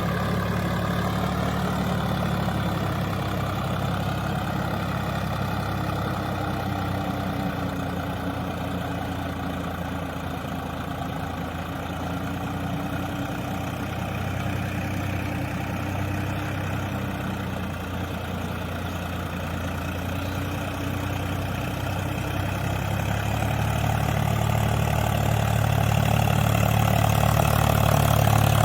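Swaraj 744 FE tractor's three-cylinder diesel engine running steadily under load while ploughing through soft mud. It grows louder over the last few seconds.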